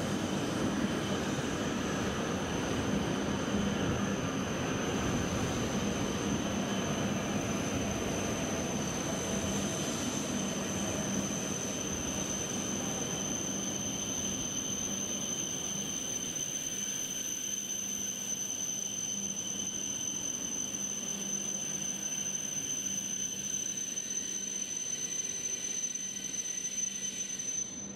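E7 series Shinkansen train running slowly into the station. Its rolling noise is strongest over the first dozen seconds and then fades. A steady high-pitched tone and a low hum continue underneath.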